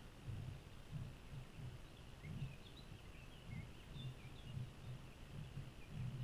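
Small birds chirping faintly a few times in the middle, over a low, uneven rumble that pulses about twice a second.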